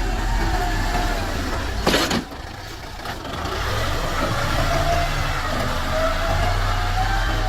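Tractor diesel engine running and revving, its pitch rising and falling. A sharp knock about two seconds in, after which the engine is quieter for about a second before building again.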